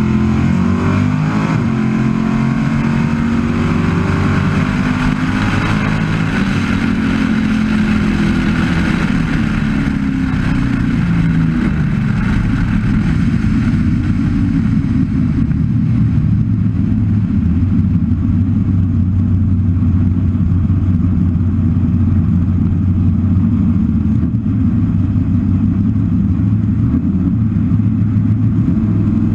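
Naturally aspirated Chevy V8 of a 1967 Camaro drag car running, its pitch shifting up and down through roughly the first dozen seconds, then settling to a steady low idle.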